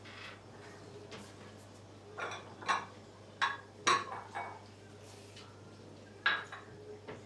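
Dishes and utensils clinking and knocking, with a quick run of knocks a couple of seconds in and one more near the end.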